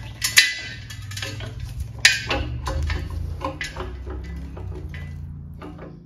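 Irregular metallic clicks and clinks from a hand tool working the sump bolts on a Holden grey motor, over a steady low hum.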